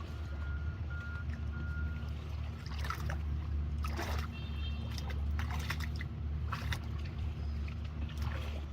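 Small engine running steadily with a low hum, while water splashes several times as fish are grabbed in shallow water.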